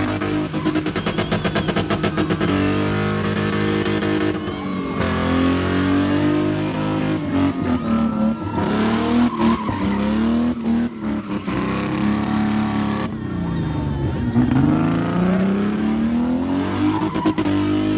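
A car's engine revving hard during a spinning display, its pitch rising and falling again and again, with tyres squealing on the ground. For the first couple of seconds the engine sound stutters rapidly.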